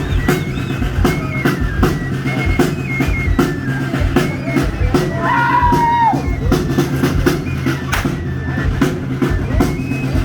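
Live music with a regular drum beat under a high melody that moves in steps, accompanying the torito dance; a brief sliding tone cuts across the melody about five seconds in.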